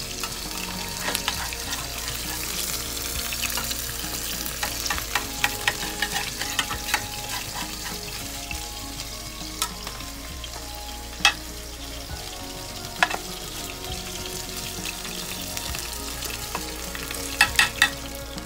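Steady sizzling of food frying, with a metal spatula scraping and clinking against a glass baking dish as roasted potato chunks are turned. There are scattered sharp clicks, and three in quick succession near the end.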